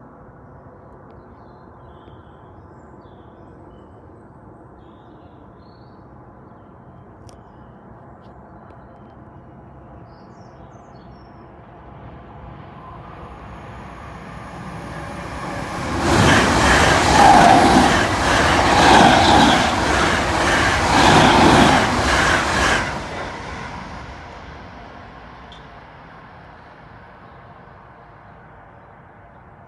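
A Class 321/322 electric multiple-unit train approaches, runs past the crossing at speed and fades away. The pass is loud for about seven seconds with a rapid clatter of wheels over the rails.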